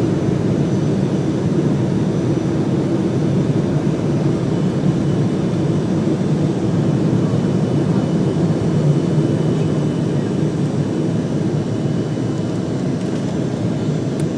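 A passenger airliner's engines during take-off, heard inside the cabin: loud, steady engine and air noise with faint high whine tones above it, easing off slightly near the end.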